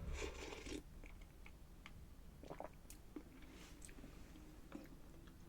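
Faint chewing and soft mouth clicks of a person eating.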